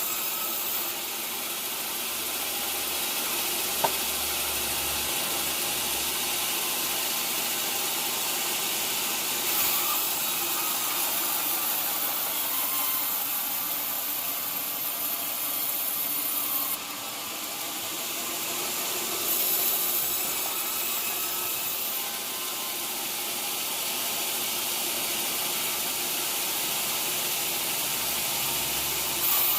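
A sawmill saw running and cutting through a teak log: a steady mechanical noise with a high hiss that shifts in level a few times.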